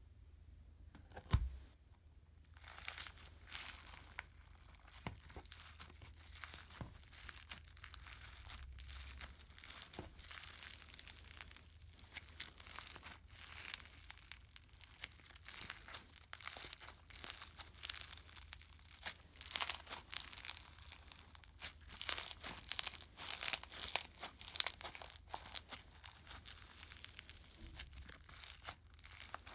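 Foam slime packed with foam beads being squeezed and worked, giving a dense run of small crunchy crackles and pops that grows busier in the second half. One sharp knock comes about a second and a half in.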